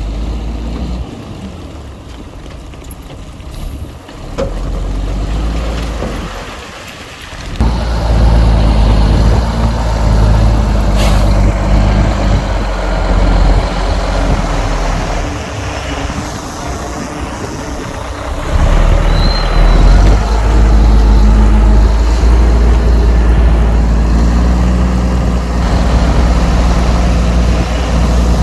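Heavy diesel earthmoving machinery running. The engine note stacks low and gets sharply louder, as under load, about 8 seconds in and again about 18 seconds in.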